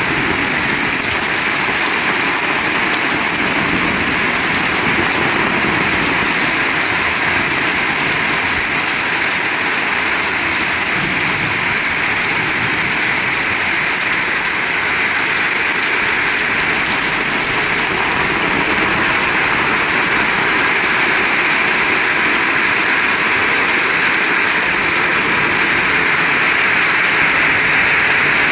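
Heavy rain pouring down steadily, a dense unbroken hiss of downpour.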